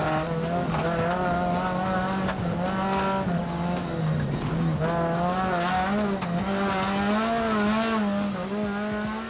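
Race car engine running hard at high revs, heard from inside the cabin, its pitch wavering up and down with throttle and gear changes.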